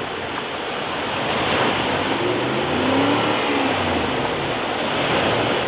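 Jeep Grand Cherokee's engine revving up and back down, peaking about three seconds in, as the SUV tries to pull itself out of wet sand where it is stuck. Steady surf and wind noise runs underneath.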